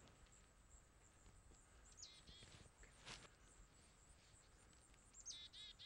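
Near silence outdoors with faint bird calls: a short run of high notes falling in pitch about two seconds in, and again near the end, with a faint tick between them.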